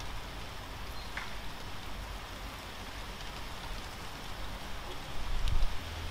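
Light rain falling: a steady hiss of drops with a few separate drips ticking. Near the end a brief low rumble, the loudest thing here.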